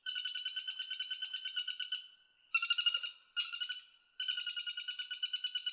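Woodpecker calling in fast, even rattles of about nine notes a second: a two-second run, two short runs, then another long run starting about four seconds in.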